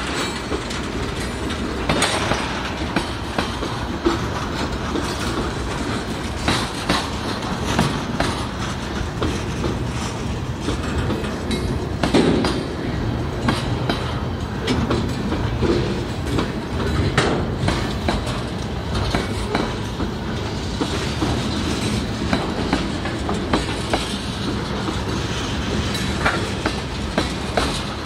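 Freight cars of a passing train rolling by close: a steady rumble of steel wheels on the rails with frequent clicks and clanks, the loudest clank about twelve seconds in.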